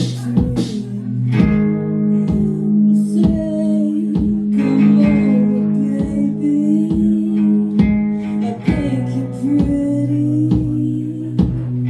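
An acoustic band playing: strummed acoustic guitar chords, about two strums a second over held low notes, with a wavering melody line above them.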